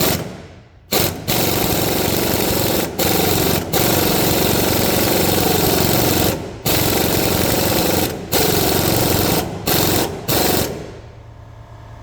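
Air impact wrench hammering in long bursts with short pauses, driving a ball joint press that pushes a new ball joint into the control arm; it stops near the end.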